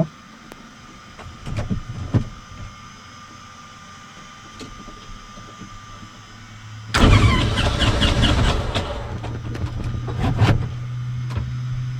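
Light aircraft's electric starter cranking the engine, starting suddenly about seven seconds in and settling into a steady low drone. The engine does not catch: a hot engine that won't start, with the starter needing to cool.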